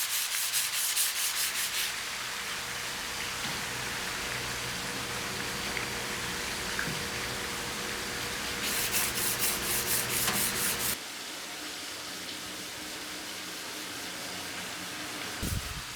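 Abrasive paper rubbing on a steel knife blade in quick back-and-forth strokes, about six a second, heard as two runs: one at the start and one about nine seconds in. Between them is steadier, slower rubbing, with a faint steady hum that stops about eleven seconds in.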